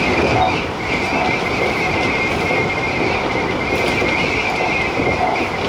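Tobu TJ Liner electric train running at speed, heard from the cab: a steady rolling rumble with a steady high whine over it.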